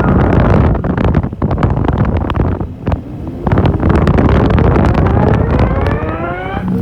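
A vehicle engine running under a heavy rumble of wind buffeting the microphone, with scattered knocks and jolts from a rough road. In the second half the engine revs steadily up in pitch as it accelerates.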